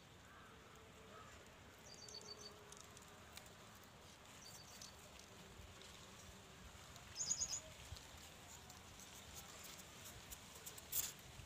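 Faint outdoor background with a small bird giving short runs of quick, high chirps three times, the loudest about seven seconds in. A few sharp clicks near the end.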